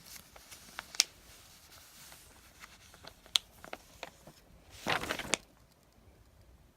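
Small packaged items being handled and set down: a few sharp clicks and taps, and a brief rustle of packaging about five seconds in.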